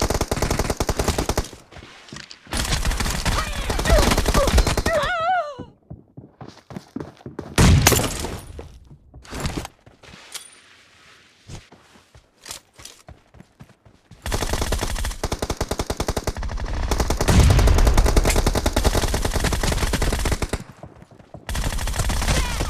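Shooter video game gunfire: rapid automatic fire in long bursts, with one loud bang about eight seconds in and a quieter lull of a few seconds in the middle before the firing starts again.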